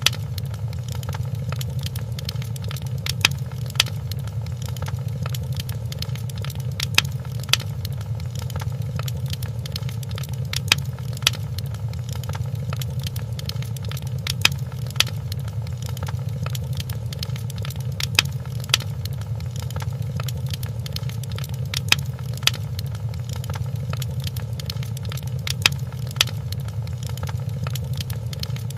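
Fireplace wood fire crackling over a steady low rumble, with sharp pops coming in pairs about every four seconds.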